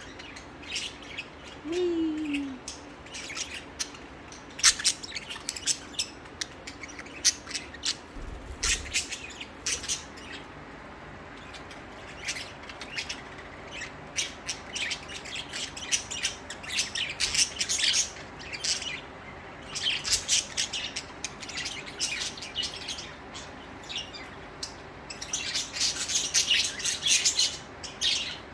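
Budgerigars chirping and chattering in a flurry of short, rapid high calls, busiest near the end.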